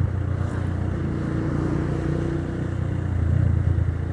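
The Minerva R150 VX's 150 cc single-cylinder SOHC engine running steadily while riding, under a steady rush of noise, with a slight rise in pitch midway.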